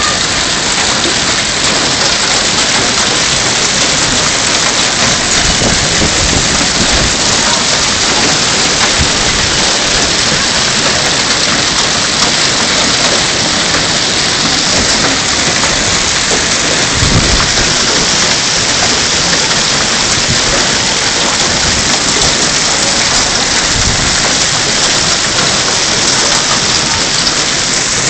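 Heavy rain falling steadily in a thunderstorm, with two brief low rumbles of thunder past the middle.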